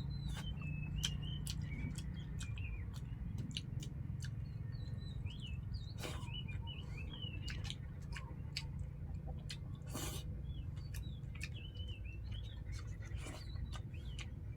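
Small birds chirping and twittering repeatedly in the background, with scattered sharp clicks over a steady low hum.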